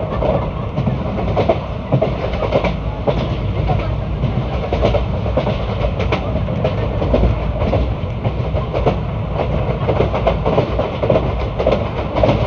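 ICF passenger coach running along the track: a steady rumble with frequent, irregular clacks and knocks from the wheels and bogies over the rails.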